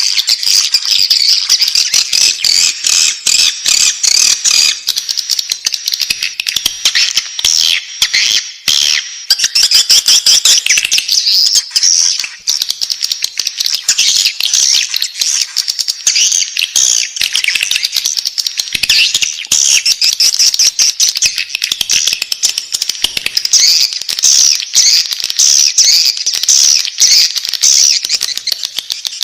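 Edible-nest swiftlet chicks calling in the nest: a dense, unbroken high-pitched chittering with many rapid clicks.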